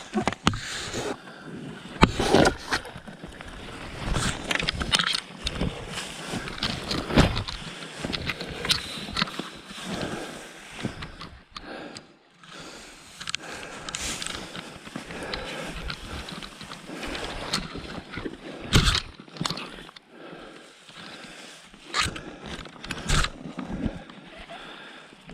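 Packraft being paddled through thin lake ice: irregular crunching and scraping as the ice breaks against the paddle and the hull.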